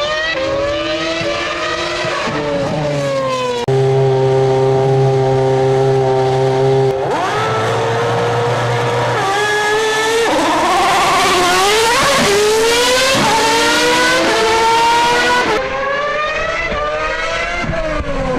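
Race car engines revving, their pitch climbing and dropping again and again as if shifting through gears, with a steady held tone for about three seconds a few seconds in.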